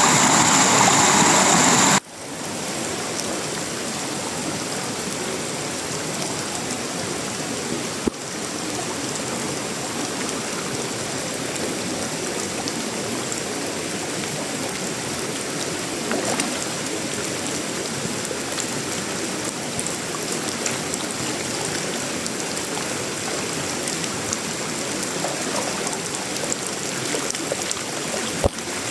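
Steady tropical rain falling on a metal roof, wood and leaves. A louder, hissing stretch cuts off abruptly about two seconds in, leaving an even, steadier patter with a few sharper drops.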